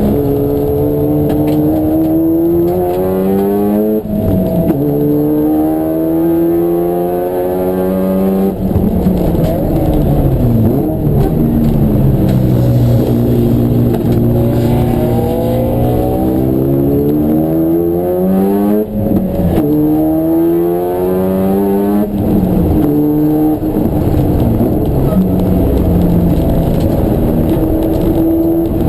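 Race car engine at full throttle through the gears, its pitch climbing and then dropping sharply at each gear change, several times over. In between it slows and builds again.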